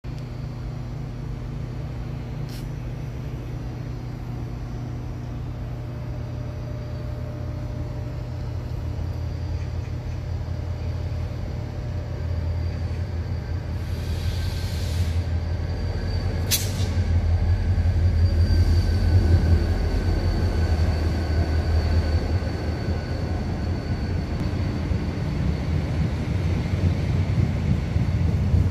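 Electric power car of a KTX high-speed train running with a steady low hum and faint whines, growing louder through the middle. A short hiss of air about halfway through, like an air-brake release, is followed soon after by a sharp click.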